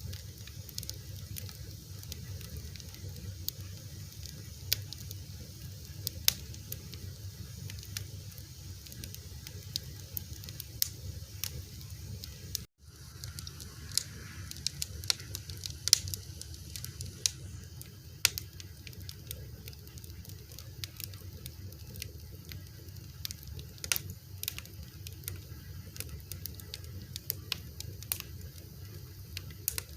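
Fire crackling: irregular sharp pops and snaps over a steady low rumble. The sound drops out for an instant about 13 seconds in.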